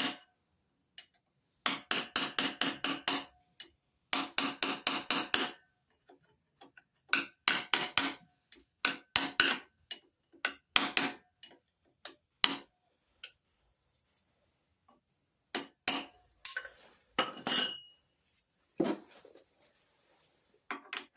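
Hand tools working on a nut on an engine: runs of quick, evenly spaced metallic clicks, about five a second, in bursts of a second or so, giving way about halfway to scattered single clinks of metal on metal.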